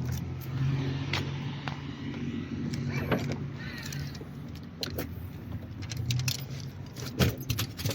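A motor running steadily with a low hum, overlaid with scattered sharp clicks and clinks.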